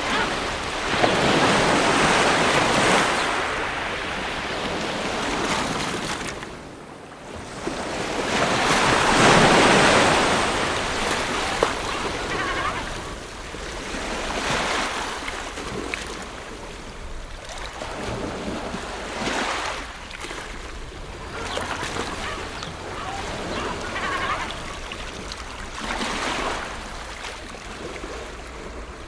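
Ocean waves washing onto a shore, each one a swell of hiss that builds and falls away. Two big waves come in the first ten seconds, then smaller ones every few seconds.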